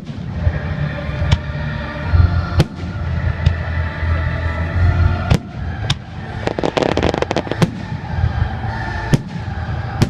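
Fireworks display: shells bursting with sharp bangs every second or two over a low rumble, and a dense spell of rapid crackling a little past halfway.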